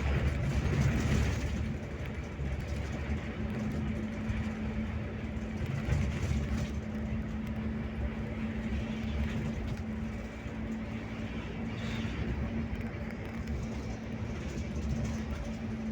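Scania K360IB coach driving on the road: a steady engine drone with a constant hum over a low rumble of road noise.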